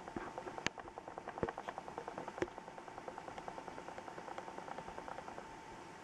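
Rain falling in a thunderstorm, heard as quick, fairly regular ticking of drops on a hard surface close to the microphone over a steady hiss, with a few sharper, louder clicks among them; the ticking thins out and fades near the end.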